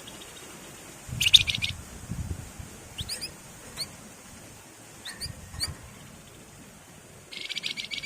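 Javan fulvetta (wergan Jawa, 'flamboyan') singing. A loud, rapid buzzy trill about a second in, then short upward-sliding whistle notes, then a second buzzy trill near the end.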